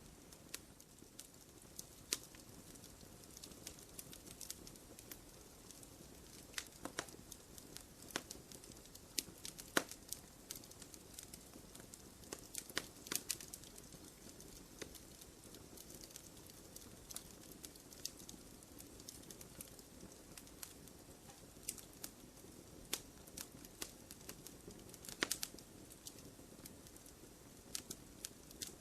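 Wood fire crackling in a fireplace: irregular sharp pops and snaps over a low, soft hiss of the flames.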